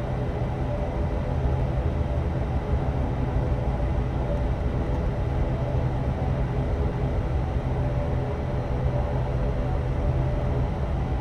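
Steady drone of an ATR turboprop airliner's engines and propellers heard inside the passenger cabin before takeoff, with a low hum and several held tones over an even rushing noise.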